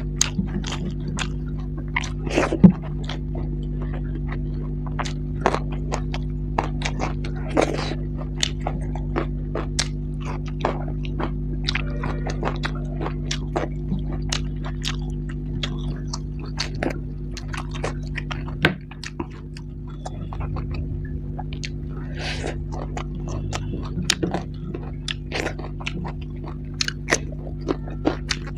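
Close-miked eating sounds of a person chewing a mouthful of curry and rice: wet chewing and lip smacks with many short, sharp clicks, over a steady low hum.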